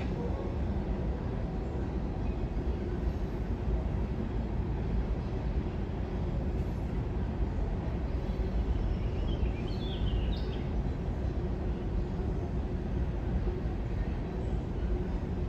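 Train running with a steady low rumble, with a few short high squeaks about nine to ten seconds in.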